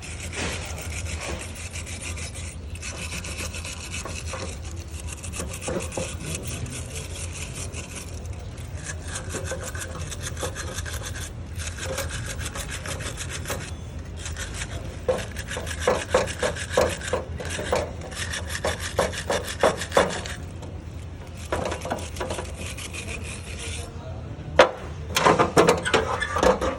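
Hand tool scraping over the metal of an engine cylinder head to clean it, in repeated rough strokes with short pauses, quickening and getting louder in the second half, over a steady low hum.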